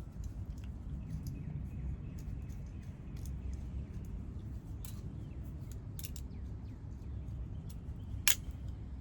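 Light handling clicks and taps of small parts and hand tools, with one sharper click near the end, over a low steady rumble.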